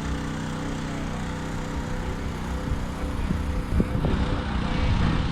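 A small engine running steadily, turning louder and choppier about four seconds in.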